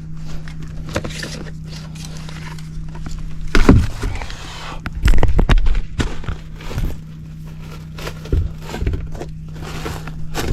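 Hands handling tools and thermostat wire: scattered clicks, knocks and rustling, with louder thumps about four and five seconds in, over a steady low hum.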